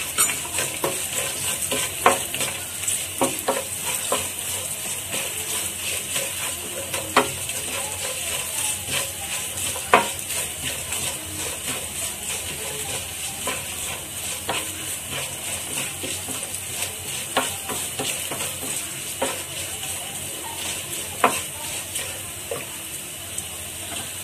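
Cashews and a tempering of chana dal, curry leaves, garlic, ginger and dried red chillies sizzling steadily as they roast in hot oil. A wooden spatula stirring them knocks and scrapes against the pan every second or two.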